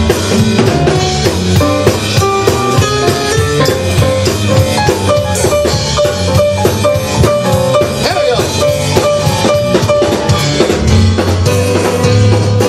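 Live band music with a drum kit keeping a steady, fast beat under sustained instrumental notes.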